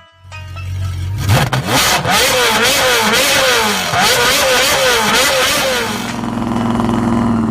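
Modified car engine being blipped: a low running note, then the revs rising and falling in quick repeated blips for several seconds, then settling to a steadier, lower note near the end.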